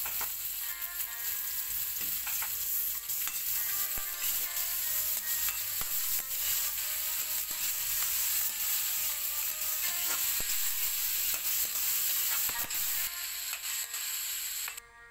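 Cubed pork with onion and garlic sizzling in hot oil in a wok, with a spatula scraping and knocking against the pan as it is stirred. The sizzle dips briefly near the end.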